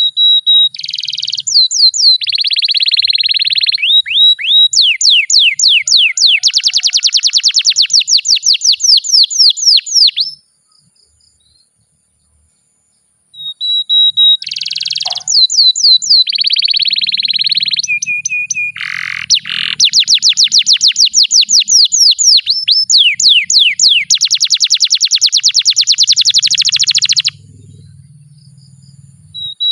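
Canary singing two long song phrases made of rapid rolling trills and fast runs of repeated downward-sweeping notes, with a pause of about three seconds between them.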